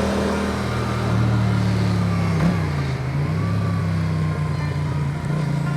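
Motorcycle engine running steadily under way. Its pitch drops once, about halfway through.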